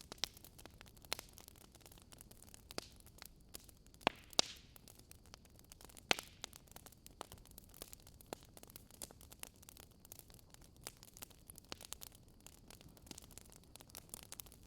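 Campfire crackling: irregular sharp pops and snaps over a faint hiss, with a few louder pops around the middle.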